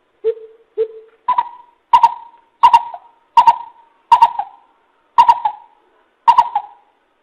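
Greater coucal calling: a series of nine deep, evenly spaced hoots. The first two are lower, and the rest come higher and louder, with a short pause before the last two.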